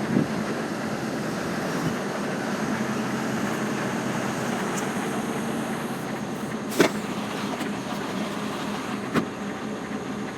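Lorry's diesel engine running steadily with a low hum, and two sharp clicks in the second half.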